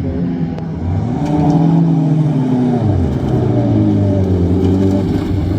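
Racing engine under hard acceleration, its pitch climbing through the revs, dropping at a gear change about three seconds in, then climbing again.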